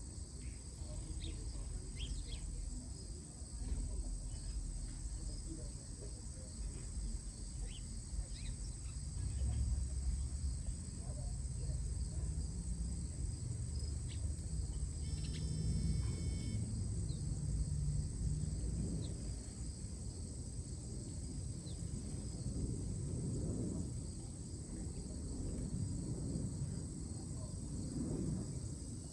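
Outdoor ambience: a steady high insect drone, like crickets, with a few short scattered bird chirps over a low rumble that swells and fades, likely wind on the microphone.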